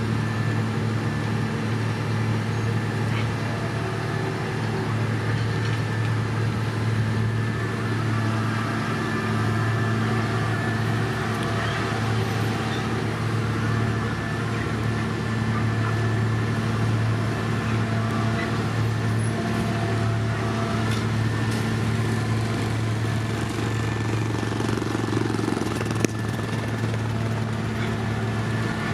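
Heavy diesel road-paving machinery running steadily: a constant low engine drone with a faint steady whine above it and no change in speed.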